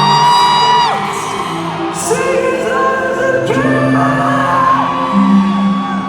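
Live pop music from a concert: long held sung notes over the band's accompaniment, with whoops from the crowd.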